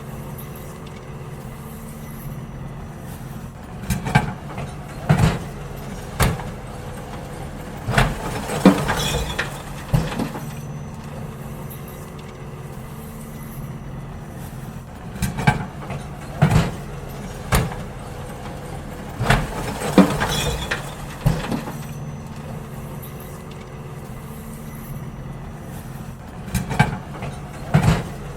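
Garbage truck running steadily while emptying bins, with clusters of sharp bangs and clatters every several seconds as the bins are tipped and knocked against it.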